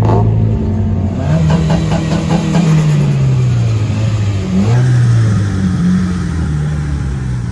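Car engine accelerating and revving: the note climbs about a second in, sinks slowly, then climbs again around five seconds in before easing off.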